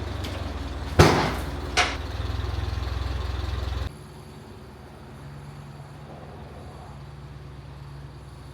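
An engine idling steadily, with two sharp bangs a little under a second apart. About four seconds in the engine sound stops abruptly, leaving a fainter steady hum.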